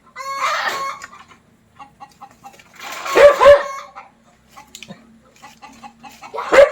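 Chickens clucking and calling: three loud pitched calls, one just after the start, one about three seconds in, and one near the end.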